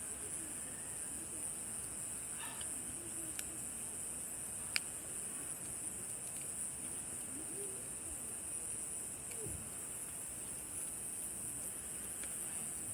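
Steady high-pitched chirring of night insects, with two sharp pops from a burning campfire, the louder about five seconds in.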